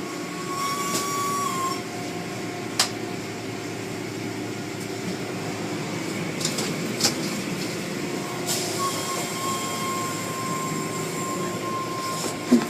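Car wash machinery running with a steady mechanical rumble and hiss. A thin high whine sounds briefly early on and returns about two-thirds of the way through, and there is one sharp click about three seconds in.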